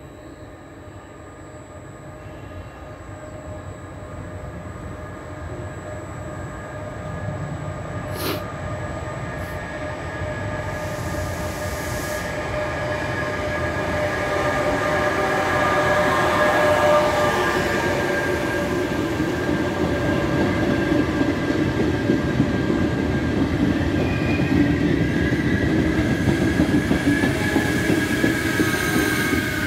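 Electric locomotive-hauled regional passenger train approaching and rolling slowly into the platform. The rumble grows steadily louder over the first half, with steady whining tones from wheels and running gear, and a single sharp click about 8 seconds in.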